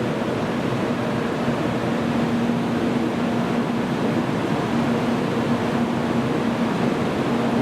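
Steady mechanical rush and hum on a Shinkansen platform, with a low steady tone that fades out and back in a few times.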